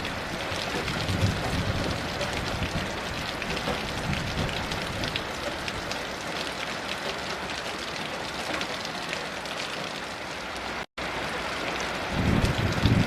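Steady heavy rain: a dense hiss full of individual drop patters. A low rumble swells in near the end. The sound cuts out to silence for an instant about eleven seconds in.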